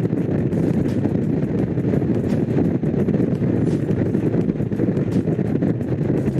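Honda CX500's liquid-cooled V-twin engine running steadily under way, with wind buffeting the microphone.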